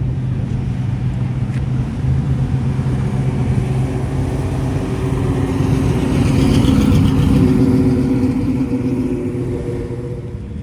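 A classic car's engine running as the car drives past. It grows louder to a peak about seven seconds in, then fades.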